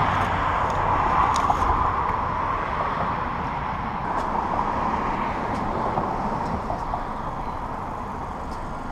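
Steady road and engine noise of a vehicle driving, a continuous hum with a low rumble and a few faint clicks.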